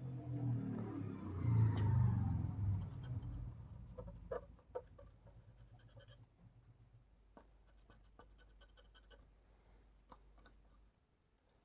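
Light, irregular scratching and small clicks of a brush scrubbing carbon deposits off a TV panel's circuit board. A pitched sound that falls in pitch comes before it in the first few seconds.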